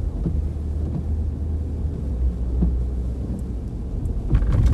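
Steady low rumble of a car's engine and tyres heard from inside the cabin while driving, with a few short knocks or rattles near the end.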